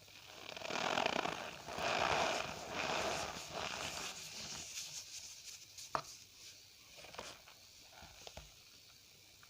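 Cornstarch powder pressed and squeezed by hand, giving a squeaky crunch in three strong pulses about a second apart, then fainter crackles and a sharp click about six seconds in.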